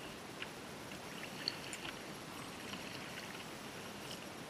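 Faint water sounds around a kayak hull, with a few small clicks and taps scattered through, one a little louder about a second and a half in.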